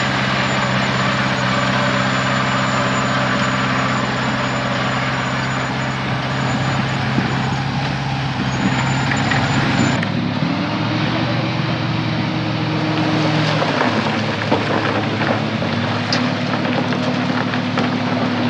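Heavy diesel engine of earthmoving equipment running steadily. About halfway through the engine note shifts and briefly rises and falls, with faint scattered clanks after that.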